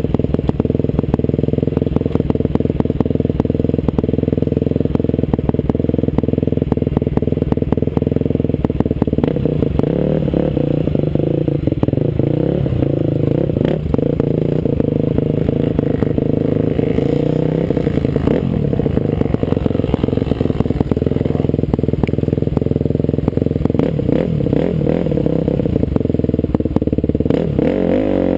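Off-road trail motorcycle engine running under changing throttle, with frequent knocks and clatter from riding over rough ground.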